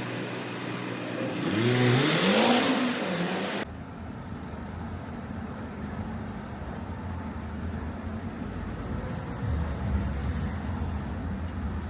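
A car passes and accelerates, its engine rising in pitch twice as it goes up through the gears. The sound cuts off abruptly to a steady low rumble.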